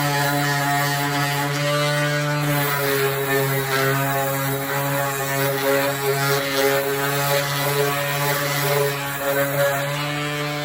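Electric sander with 320-grit paper running steadily, its motor's tone shifting slightly a few seconds in as it works against the part.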